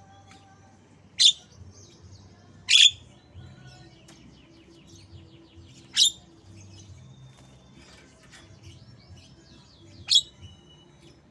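Javan myna (jalak kebo) singing in white-rumped shama style: four loud, sharp calls a few seconds apart, with fast chattering trills between them.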